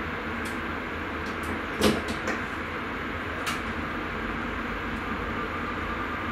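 Steady running rumble inside a Sprinter commuter train's driver's cab, with a few short clicks and knocks, the loudest about two seconds in. A faint steady whine comes in near the end.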